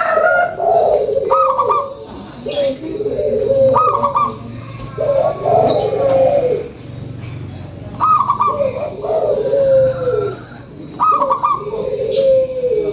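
Local zebra dove (perkutut) in full song, repeating its cooing phrase about every two to three seconds: each phrase opens with a higher note, then runs into a lower, rolling coo.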